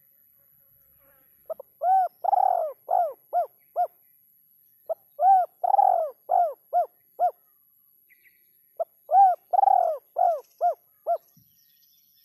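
Spotted dove (derkuku) cooing: three phrases, each of six or seven arched coo notes, the second note longest and the rest getting shorter and quicker towards the end.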